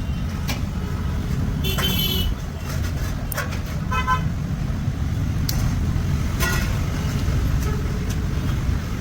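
Road traffic running steadily, with short vehicle horn toots about two seconds in and again around four seconds, and a few sharp metallic clicks.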